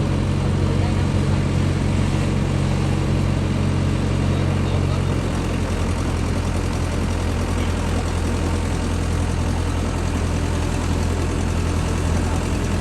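Mini excavator's diesel engine running steadily, its note shifting slightly about five seconds in.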